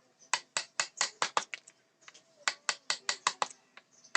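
Mallet striking a wood-carving chisel into teak in quick, even taps, about five or six a second, in two runs with a short pause between them.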